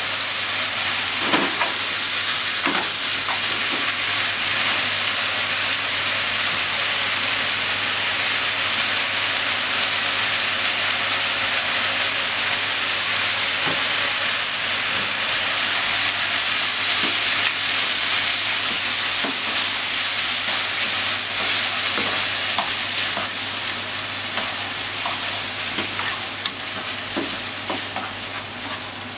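Diced chicken, onion and corn sizzling in oil in a frying pan, a steady hiss with scattered small pops. Near the end a spatula stirs the food and the sizzle softens.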